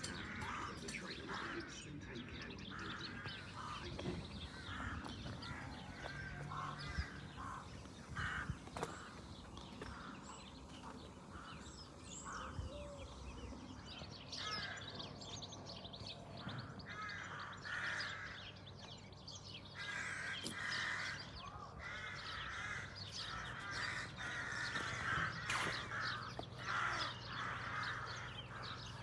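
Birds calling: many short, repeated calls, coming thicker in the second half, over a faint steady low hum.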